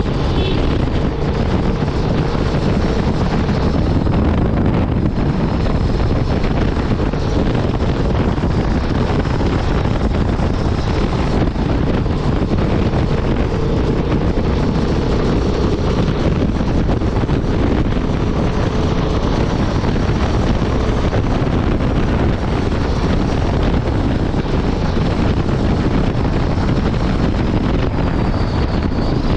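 Honda Transalp 750's parallel-twin engine running steadily at highway speed under a heavy rush of wind on the microphone, with no change in revs.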